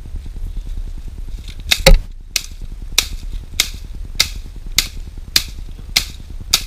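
A heavy blade chopping into a small tree trunk. There is a loud double hit first, then a steady run of blows a little under two a second, over a low steady hum.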